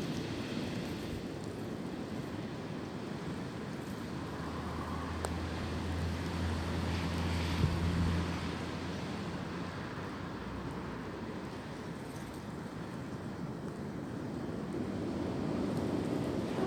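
Wind blowing through tree branches, a steady rushing hiss. From about four seconds in, a low engine hum rises, holds for a few seconds and fades, like a vehicle passing.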